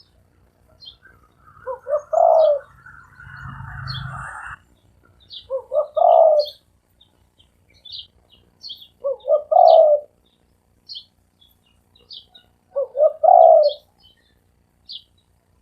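Spotted dove cooing: four phrases of a few notes each, about every three to four seconds, with small birds chirping thinly in the background.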